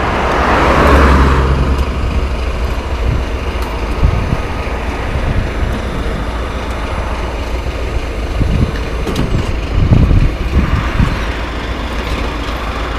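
Vehicle engine running steadily with a deep rumble, and a burst of hiss in the first two seconds.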